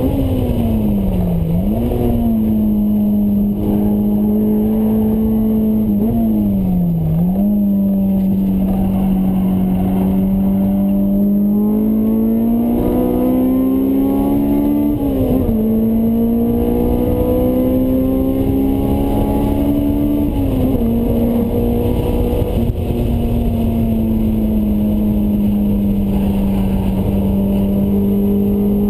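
Honda S2000's four-cylinder engine through a Mugen exhaust, heard from inside the cabin at track speed. Its note sags and jumps back up twice in the first seven seconds as the gears change, climbs through the middle, drops again, then holds steady.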